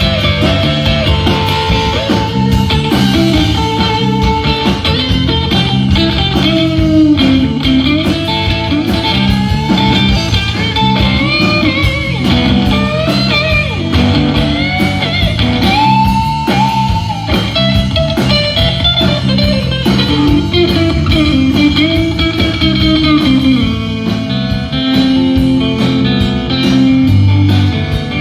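Live band playing a blues-rock instrumental passage: an electric guitar lead with bent, gliding notes over bass guitar and drums.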